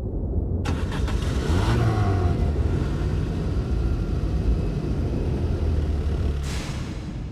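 Car engine starting about a second in, revving briefly, then running steadily as the car pulls away, with a rush of road noise near the end.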